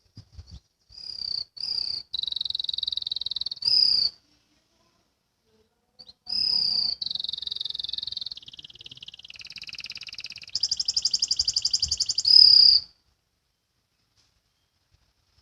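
Domestic canary singing two long phrases of high, rapid trills and rolls, the second phrase changing pitch several times and loudest near its end.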